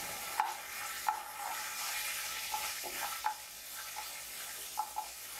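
Finely chopped ginger and garlic sizzling gently in hot oil in a pan. A wooden spatula stirs them, knocking lightly and irregularly against the pan about ten times.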